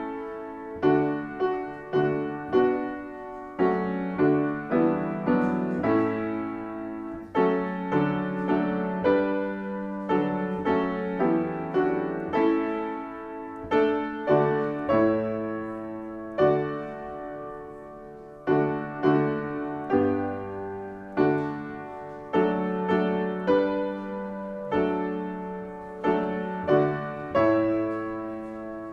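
Piano playing a slow, hymn-like piece: chords and melody notes struck about once or twice a second, each ringing and fading before the next.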